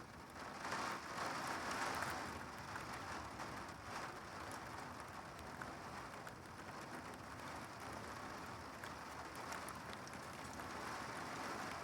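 Heavy rain and gusting wind of a severe thunderstorm: a steady rushing hiss that swells about a second in and again near the end, with scattered ticks of drops striking.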